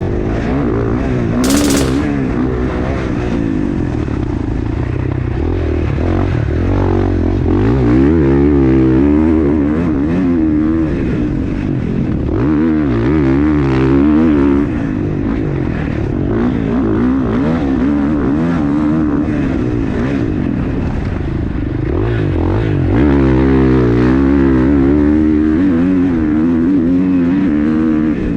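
Dirt bike engine revving up and down again and again as it is ridden hard. A short sharp hiss cuts in about a second and a half in.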